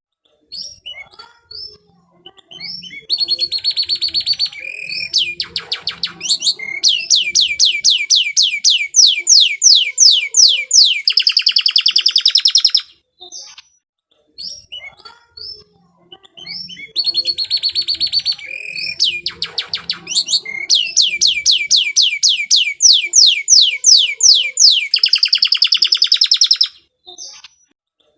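Domestic canary singing in full voice: two long song phrases of about ten seconds each, built of fast rolling trills and repeated high notes, with short pauses between them.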